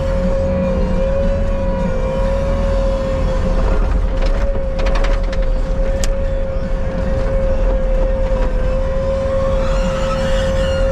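Bobcat skid steer running under work, a steady low engine drone with a constant high whine on top. A short run of rattling clatter about four to six seconds in.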